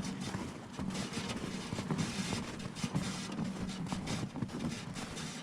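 A wheelbarrow being pushed through snow, with footsteps and irregular clacks over a steady low rumble.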